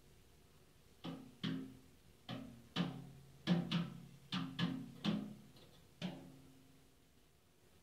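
Metallic clanging made by a bird striking a metal object: about a dozen sharp, irregular clangs, each ringing briefly, some in quick pairs, with a pause of a second or so near the end.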